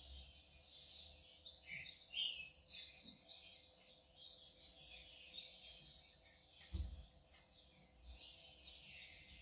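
Birds chirping faintly, a steady chorus of many short high calls, with a brief low thump about seven seconds in.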